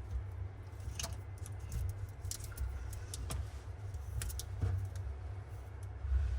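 Scattered light clicks and taps of small hard parts or tools being handled, about eight in all, over a steady low rumble.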